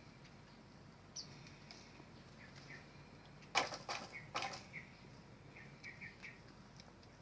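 Aviary birds chirping with short repeated calls, and a burst of wing flapping about three and a half seconds in.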